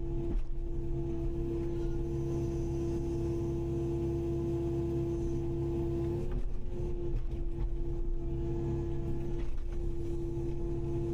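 Kubota KX080-5 excavator's diesel engine running steadily with a low rumble and a steady hum, dipping briefly a few times.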